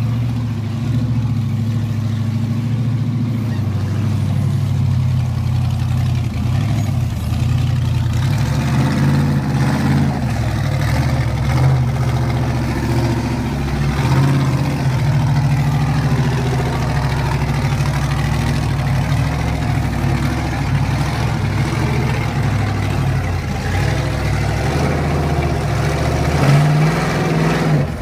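Modified Jeep YJ race car's engine working as it crawls up over boulders, its revs rising and falling in steps, with a short burst of higher revs near the end.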